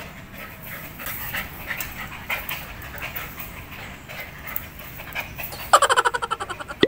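A dog panting, with faint irregular breathy puffs. Near the end comes a loud, rapidly pulsing pitched sound about a second long.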